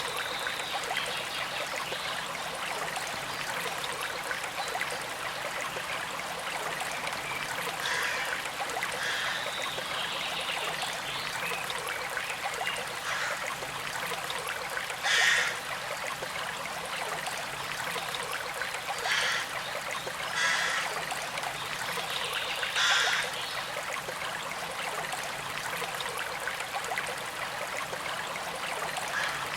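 A small creek flowing steadily with a gentle trickle. A few brief, louder splashes or gurgles stand out, the strongest about halfway through.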